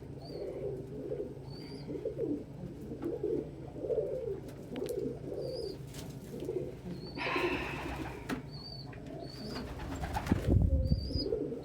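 Domestic pigeons cooing repeatedly in a loft, with faint short high chirps about once a second. There is a burst of rustling about seven seconds in and a louder, deeper rustle-thump around ten seconds in.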